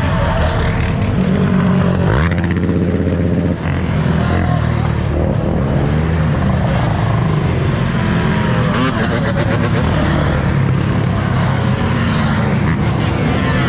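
Loud V8 muscle-car engines idling with a deep rumble, one of them revving up about two seconds in.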